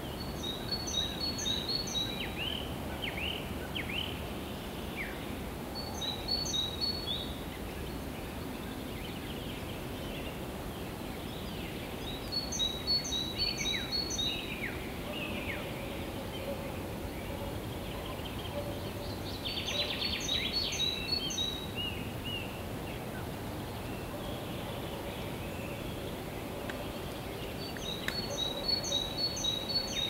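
Songbirds singing at dusk: one bird repeats a short phrase of quick high notes about every six to seven seconds, and others answer with lower, falling whistles. This sits over a steady low background hum, and a faint steady drone comes in about halfway.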